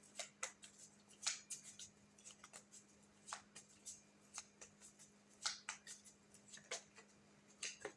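A tarot deck being shuffled by hand: a string of quick, irregular soft card clicks and flicks, with a faint steady hum beneath.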